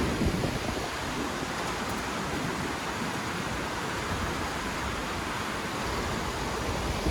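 Steady rush of running water from a river.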